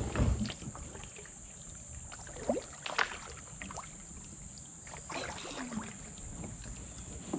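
Kayak and paddler forcing a way through overhanging tree branches: scattered scrapes, knocks and rustles of branches against the boat and paddle, with a sharp knock about three seconds in.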